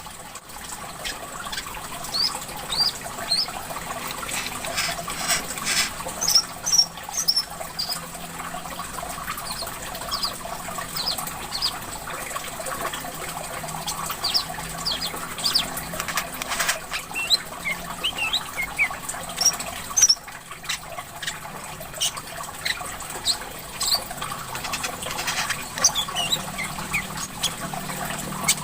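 Sunbird (kolibri kelapa) song: many short, high, quick chirps in irregular runs, over steadily trickling water.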